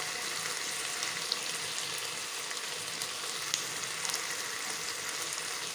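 Bottle gourd leaves and vegetables sizzling in mustard oil in a pan: a steady frying hiss with faint small crackles.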